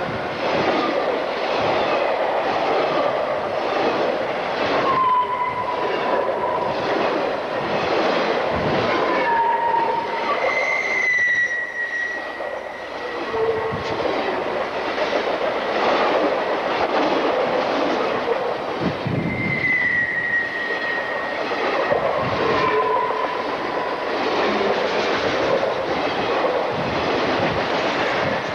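Freight train boxcars rolling past at close range: a steady rumble and clatter of steel wheels on the rails, with short high wheel squeals several times.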